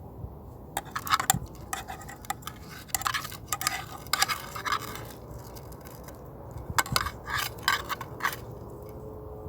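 Three bouts of quick scraping strokes, like something rough being rubbed or scraped back and forth.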